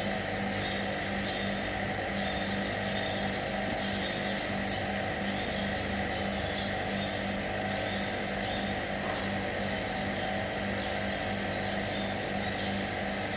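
Steady hum of a running motor, even and unchanging throughout.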